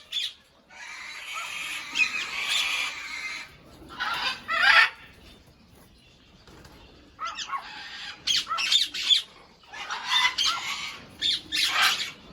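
Large aviary birds squawking in harsh, repeated calls, with a rustling stretch of noise about a second in.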